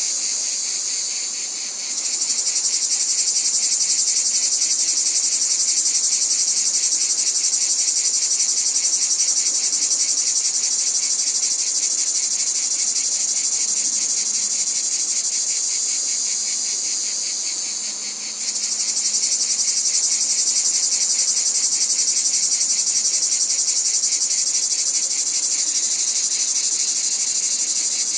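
A chorus of forest insects trilling continuously in a fast, even pulse, high-pitched with a lower pulsing layer beneath. The higher, louder part fades briefly about two seconds in and again past the middle, then picks up again.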